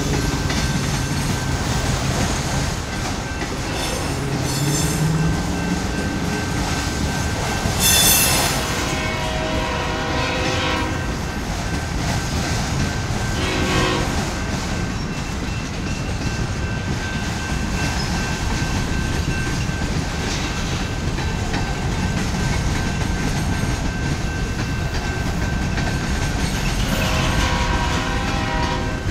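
Freight cars of a Canadian Pacific manifest train rolling past: a steady rumble with wheel clatter. A train horn sounds a few times, about a third of the way in, briefly midway, and again near the end.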